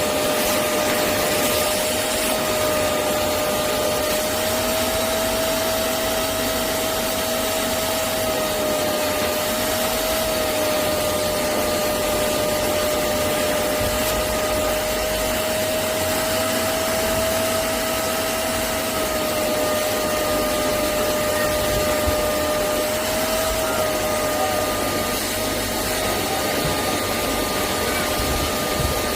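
Hoover CleanSlate Pet spot cleaner's suction motor running steadily, with a steady whine that wavers slightly in pitch over a constant rush of air.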